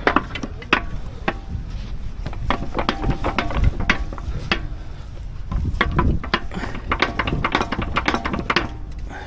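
Irregular sharp clicks and clatter, several a second and uneven in spacing, over a steady low rumble.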